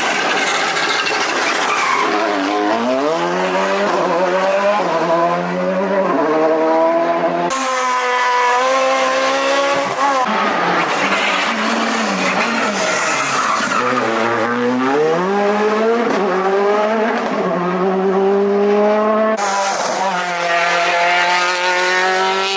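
Rally cars at racing speed on a closed stage, engines revving high and dropping back over and over as they shift gears, brake and accelerate. The sound cuts abruptly from one car to the next a few times.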